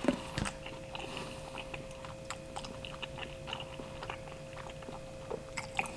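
Close-up chewing of a mouthful of Detroit-style pizza: small wet smacks and clicks of the mouth working, with one louder smack just after the start. A faint steady hum runs underneath.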